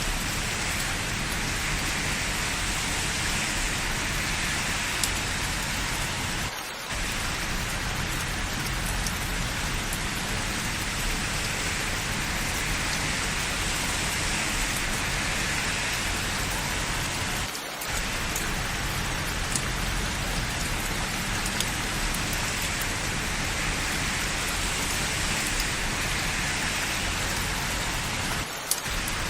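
Steady rain falling on hard surfaces, an even hiss with scattered faint drip ticks. The level dips briefly three times, about eleven seconds apart.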